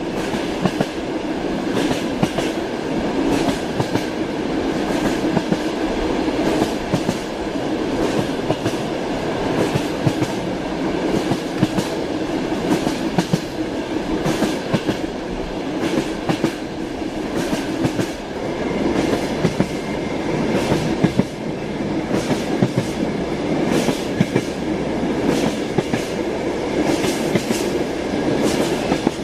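Train wheels clacking over rail joints over a steady running rumble as the train travels along the track.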